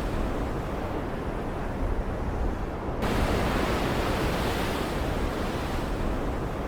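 Stormy ocean ambience: waves washing in over a steady deep rumble. A fresh surge starts suddenly about three seconds in and slowly fades.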